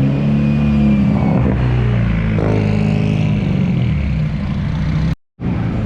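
Car engine running steadily, with small rises and falls in pitch. The sound drops out completely for a split second near the end.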